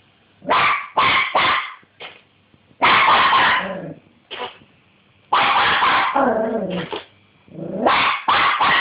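Dog barking in an excited, irregular string of about a dozen loud barks, some short and sharp, a few drawn out into longer yelps that drop in pitch at the end.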